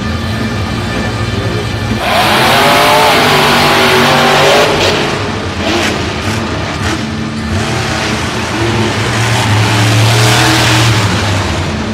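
Monster truck engine revving hard, coming in loudly about two seconds in, its pitch swinging up and down as the throttle is worked.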